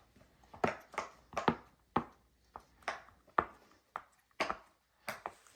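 Silicone Pop-It fidget toy bubbles being pressed through by fingers, a series of sharp pops about two a second, uneven in spacing.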